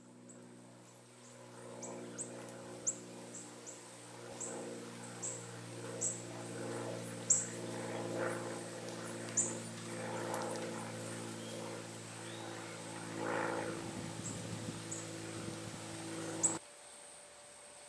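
Short, sharp, high bird chip notes at irregular intervals, over a steady low hum and a faint, steady high insect whine. The hum cuts off suddenly near the end.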